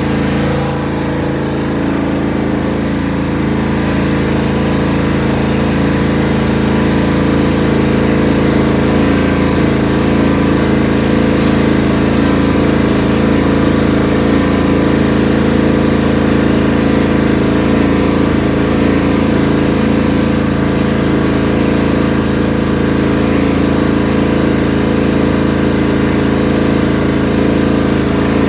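Riding lawn tractor's small gasoline engine running at a steady speed, left running to recharge its weak battery.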